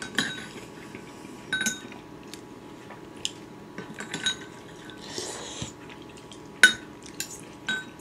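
Cutlery clinking against dishes while eating: a scattered series of sharp clinks, each with a brief ringing, the loudest about two-thirds of the way through.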